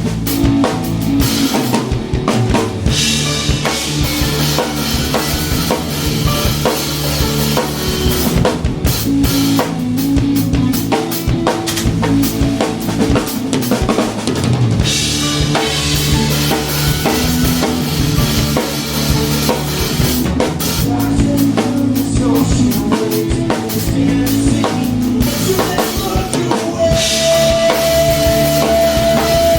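Rock band playing live, with the drum kit loudest: rapid kick, snare and cymbal strikes over changing bass and chord notes. A steady held note comes in near the end.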